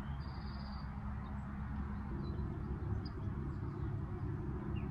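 Outdoor background: a steady low rumble, with a short high bird trill about a quarter second in and a few faint chirps.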